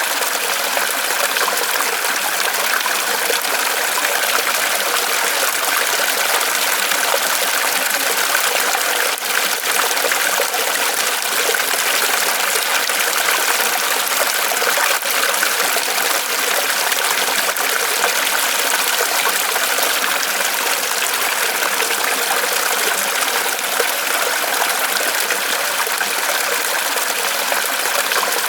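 Water trickling and splashing steadily as it falls from a tree trunk in a small waterfall.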